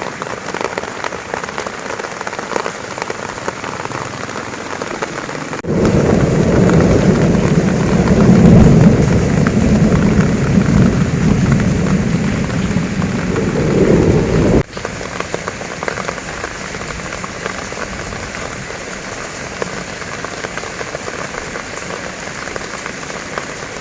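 Heavy rain falling on a campervan, a dense, steady patter. For about nine seconds in the middle it is louder and deeper, beginning and ending abruptly.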